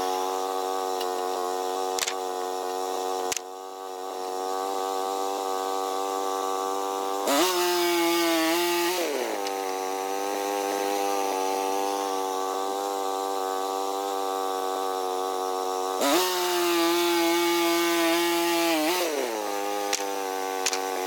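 Small band sawmill's gas engine running steadily. Twice it revs higher and louder for a couple of seconds before settling back, with a few sharp clicks in between.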